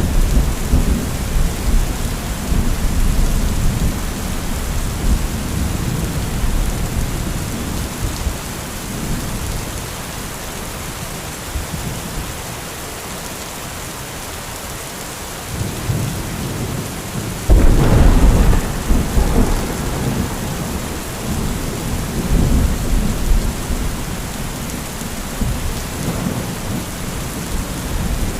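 Heavy rain falling steadily with thunder. A rumble fades away over the first several seconds and the rain carries on alone. Just past halfway a close thunderclap breaks with a sharp crack and rolls on for several seconds, with smaller rumbles after.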